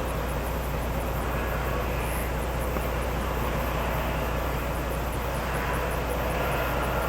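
Scania logging truck's diesel engine running steadily with a load of logs, a deep, even drone.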